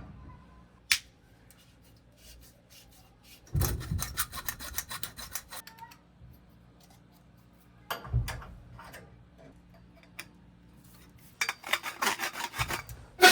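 A hand tool scraping on a copper pipe as it is cut shorter: spells of rapid rubbing strokes, with a click about a second in and pauses between the spells.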